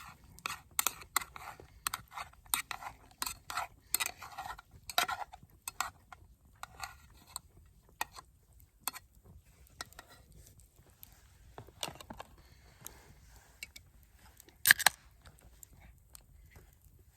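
A run of quick, sharp clicks and clinks from small hard objects being handled. They come thick and fast for the first several seconds, then grow sparse, with one loudest knock near the end.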